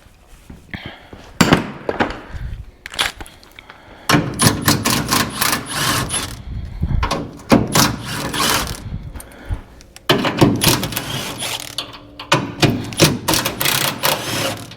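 Hand ratchet wrench clicking in bursts of quick strokes, with pauses and a few metal knocks from tools in between.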